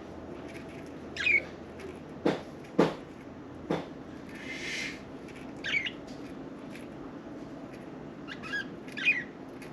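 Budgerigars giving short, sharp chirps every few seconds, with three sharp knocks in the first half and a brief rustle in the middle.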